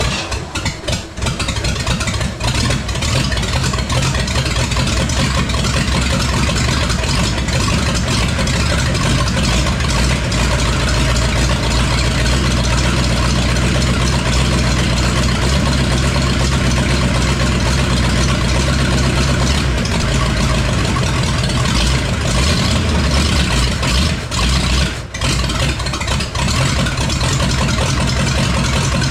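Ford 5.8-litre V8 running steadily at idle with no exhaust system fitted, its ignition timing still short of advance, with brief dips in level about a second in and again near the end.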